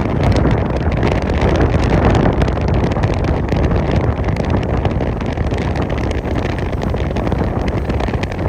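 Durango & Silverton narrow-gauge steam train running past in a steady loud rumble, with wind buffeting the microphone.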